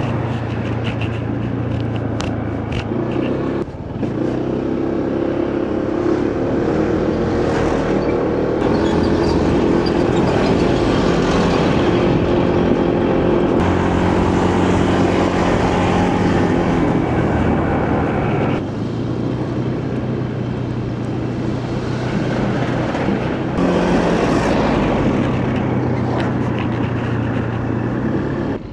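Motorcycle engine running under way, with wind and road noise; the engine note drops about 4 s in and again around 18 s, and rises again a little before 24 s, as the speed changes.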